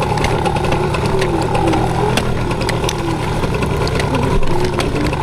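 Yamaha PW80 two-stroke single-cylinder dirt bike engine running steadily, with scattered clicks and knocks over it.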